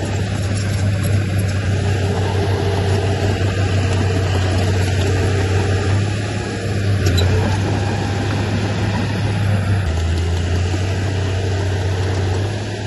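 Diesel engine of heavy earthmoving machinery running under load, a steady low drone that shifts slightly in tone about ten seconds in.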